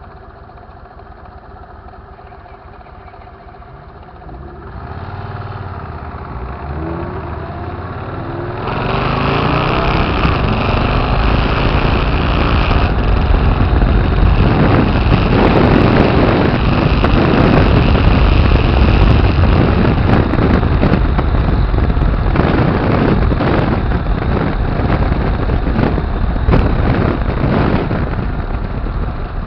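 Motorcycle engine idling steadily, then revving and pulling away about five seconds in. From about nine seconds it runs loud at speed, with heavy wind noise on the microphone.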